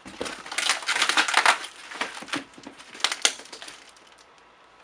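Cardboard shipping box being pulled and torn open by hand: a run of rough tearing and crunching for about two seconds, another sharp rip about three seconds in, then it dies away.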